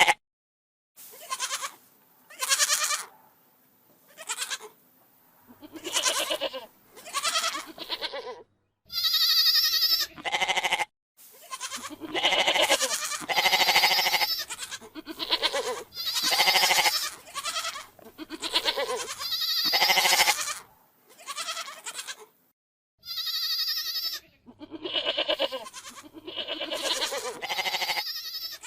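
Domestic goats bleating over and over, a long string of calls of about a second each. Some calls are higher and clearer than others, and there are a few sudden short silences between them.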